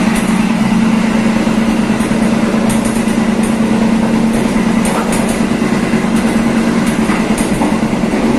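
Passenger train running along the track, heard from the rear carriage: a steady rolling rumble with a strong low hum and scattered light clicks from the wheels on the rails.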